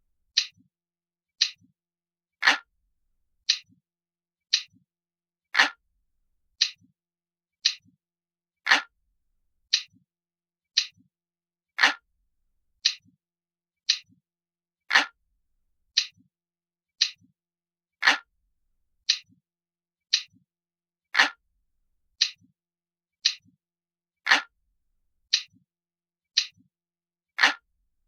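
Analog clock ticking, about one tick a second, with every third tick louder and deeper. It is an even, repeating ticking loop.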